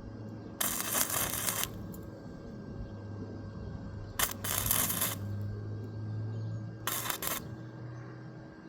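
Three short bursts of hissing noise, each about a second or less, over a steady low electrical hum.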